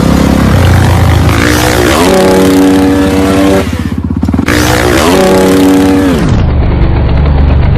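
Motorcycle engine accelerating hard twice, its pitch climbing steeply and then holding high.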